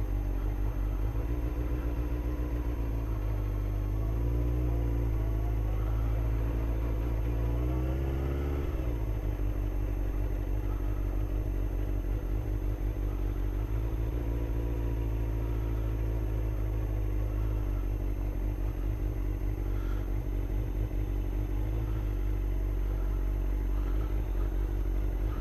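Suzuki GSX-R sportbike engine running at low speed, picking up in pitch about four seconds in and easing off near the eighth second, then holding steady, over a deep steady rumble.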